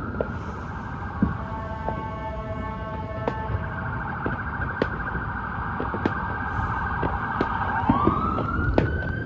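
An emergency vehicle siren wailing, holding a high tone and then dipping and climbing again near the end, with scattered sharp bangs and pops from fireworks throughout.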